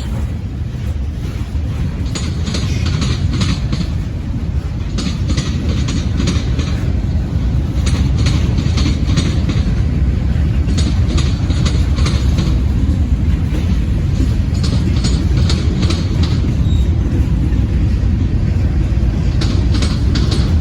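Freight train of tank cars rolling past: a steady rumble with clusters of wheel clicks over the rail joints every few seconds.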